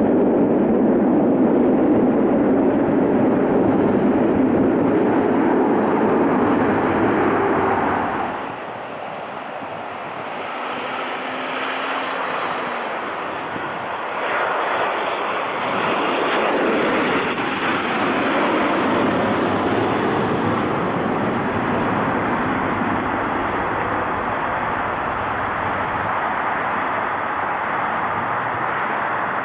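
Jet airliner engine noise: a heavy steady rush that drops away suddenly about eight seconds in, then builds again with a whine that shifts in pitch as an aircraft passes.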